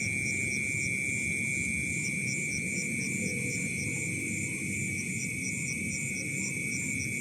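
Night-time chorus of insects and frogs: a constant high-pitched insect trill, a higher pulsed chirping about twice a second, and a dense low croaking chatter of frogs underneath.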